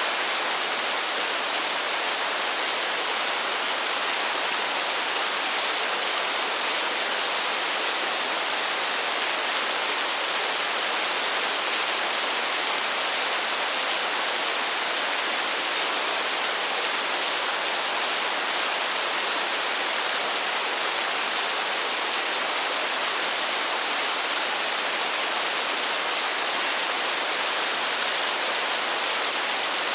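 Steady rush of falling water, an even hiss with no single drops or splashes standing out and no change in level.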